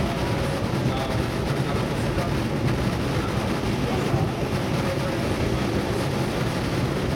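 Cabin ride noise of a DB Class 420 S-Bahn electric multiple unit running at speed: a steady low rumble from the wheels and running gear on the track.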